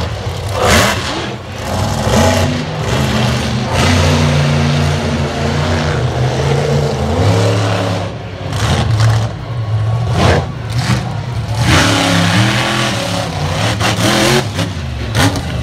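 Monster truck engine revving hard and easing off over and over, its low drone stepping up and down in pitch, with several sudden loud bursts of noise.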